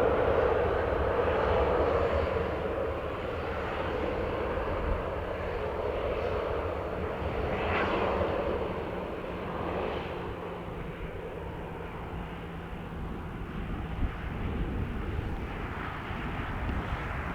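Jet airliner engines, loudest at the start and slowly fading as the aircraft moves away after takeoff.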